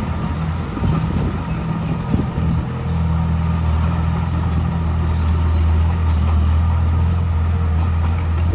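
Heavy machine's diesel engine running steadily under load, a low even drone that settles about three seconds in, with some irregular knocks in the first few seconds.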